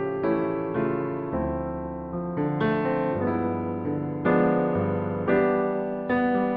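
Background piano music: gentle chords and melody notes struck about once or twice a second, each fading before the next.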